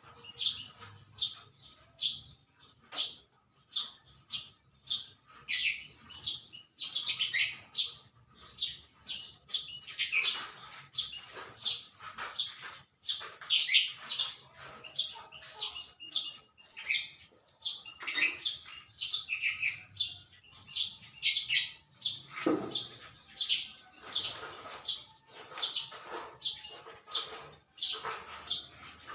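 Small birds chirping, many short high chirps coming several a second without pause.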